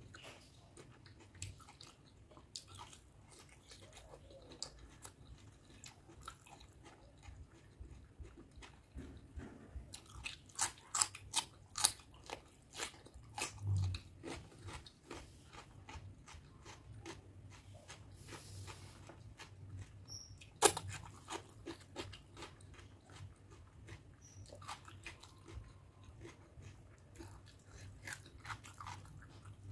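Close-up eating sounds: a person chewing a mouthful of rice and curry with wet, smacking mouth noises. About ten seconds in comes a run of crisp crunches from biting raw cucumber, and a single sharp click stands out about twenty seconds in.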